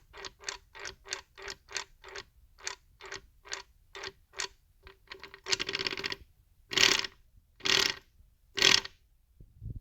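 Mechanical clicking from a BMW 320i E46's rear end, about three clicks a second. After a few seconds it gives way to a harsh rasp and then three loud clunks about a second apart. The sound comes from a differential with broken spider gears and a worn diff bushing.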